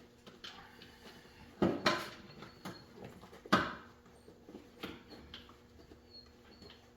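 Clinks and knocks of hand tools and a wheel being handled as a motorcycle tire and inner tube are worked off the rim, with two louder knocks, one about a second and a half in and another about two seconds later.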